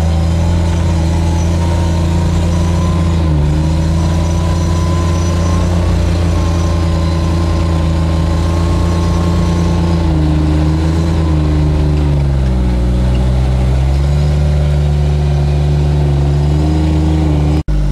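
Engine of a Gator utility vehicle running steadily while driving. Its pitch shifts briefly about three seconds in, then drops and comes back up between about twelve and fourteen seconds as the vehicle slows and picks up speed again. The sound cuts out for an instant just before the end.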